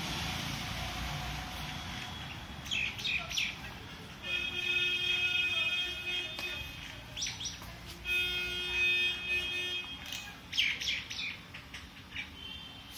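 Birds chirping in short bursts. Twice a steady held tone with several overtones, each lasting about two seconds, sounds alongside them.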